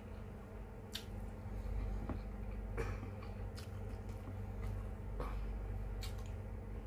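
Close-miked eating: wet chewing and scattered mouth clicks and smacks, a few a second or so apart, from a person eating vinegar-stewed fish, over a steady low hum.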